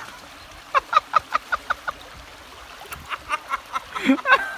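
Laughter in quick rhythmic ha-ha pulses, one run about a second in and a louder run near the end.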